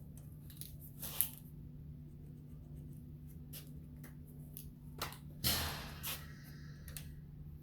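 Faint handling noise of small clicks and rustles, with a louder rustle about five and a half seconds in, over a steady low hum, as multimeter probes are moved between the Prius hybrid battery's module terminals.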